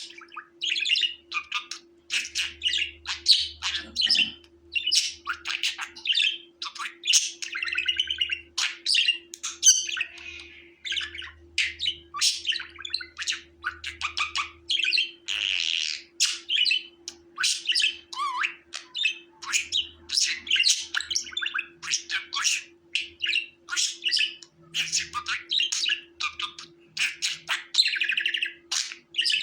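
Budgerigars chirping and warbling in quick, continuous chatter, with short harsh squawks mixed in.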